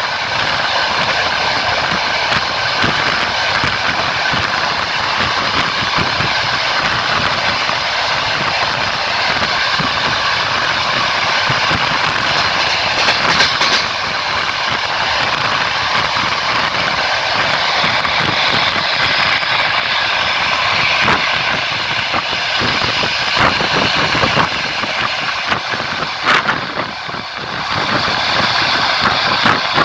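Passenger train running along the track, heard from on board: steady wheel-and-rail noise with occasional sharp knocks of the wheels.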